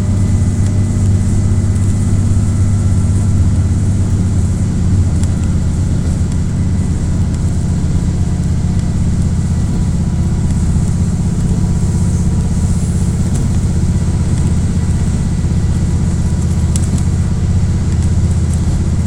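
KiHa 48 diesel railcar's engine working steadily under power, heard from inside the car: a loud, deep, even drone with a faint steady whine above it. This is typical of the railcar pulling up the gradient on this stretch.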